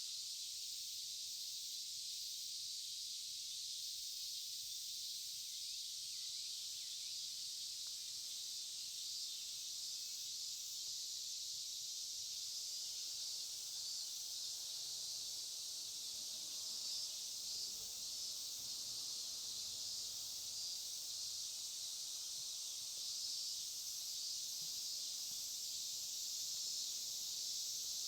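Steady, unbroken chorus of insects shrilling, high-pitched, as in a late-summer dawn.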